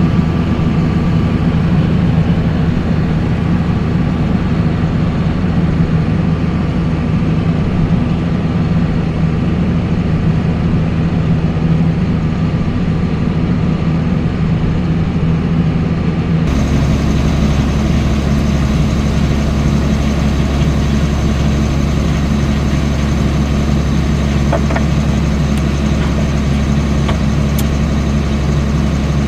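Heavy farm machinery's diesel engine running steadily at a constant speed. The sound switches abruptly to a different engine pitch about 16 seconds in.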